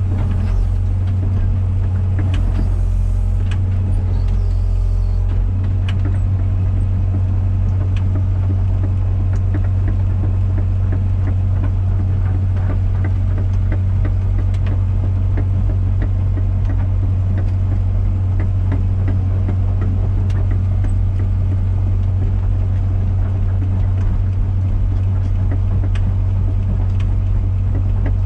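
Komatsu PC120-6 excavator's four-cylinder diesel engine running steadily under throttle, a constant low drone with faint scattered ticks.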